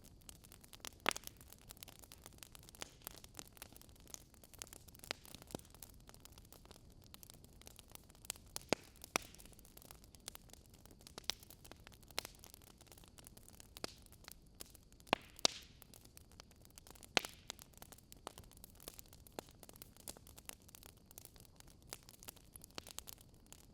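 Fire crackling: irregular sharp pops and snaps, a few clearly louder than the rest, over a faint steady hiss.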